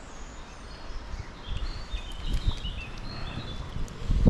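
Small songbird chirping and twittering over the steady rush of a mountain river, with low wind buffets on the microphone and a heavier low thump near the end.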